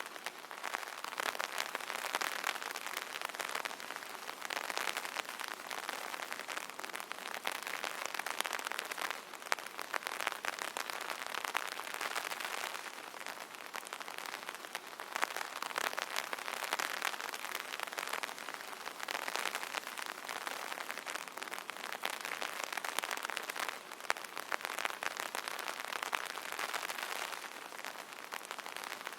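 Rain pattering on an umbrella canopy: a dense, steady patter of drops that swells and eases every few seconds.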